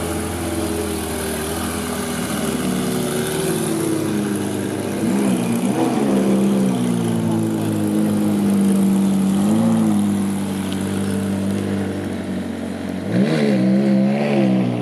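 Car engine running steadily, with short blips of revs about five seconds in, once near ten seconds, and twice in quick succession near the end.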